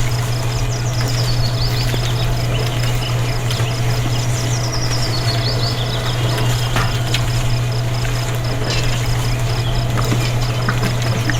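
Steady low drone of a small running motor, with birds whistling in short falling notes and a fast, high pulsing chirp over it.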